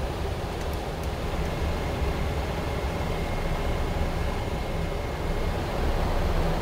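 Steady in-flight noise of a Boeing 777-200: a constant rumble of airflow and engines with a faint high whine in the middle.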